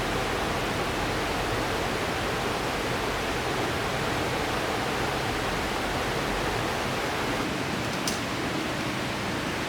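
River water rushing steadily, with one faint click near the end.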